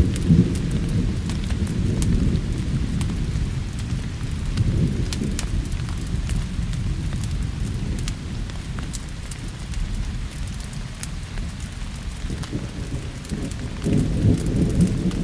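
Steady rain with low rolling thunder that swells at the start and again near the end, over the sharp crackling pops of a wood fire.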